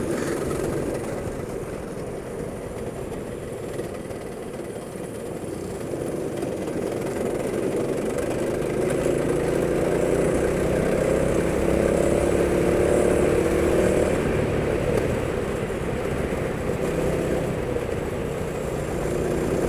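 Go-kart engine running, growing louder and rising slightly in pitch from about 8 seconds in, then easing off after about 14 seconds.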